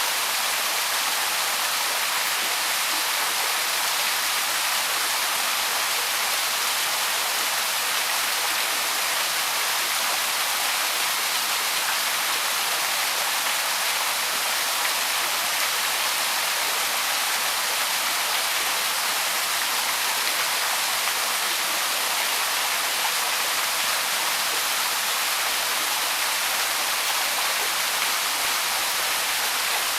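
Small waterfall on a woodland stream splashing steadily, a constant rushing hiss.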